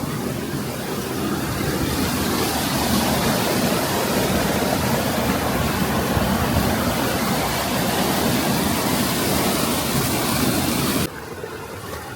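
Steady rush of fast-flowing stream water, loud and even. It drops abruptly to a quieter rush about eleven seconds in.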